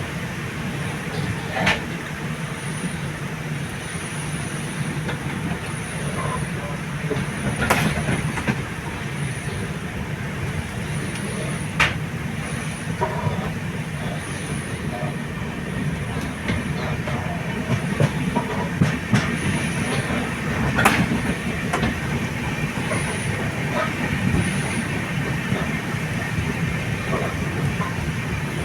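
Moving passenger train: a steady low rumble of wheels on track, with sharp clacks every few seconds as the wheels cross rail joints.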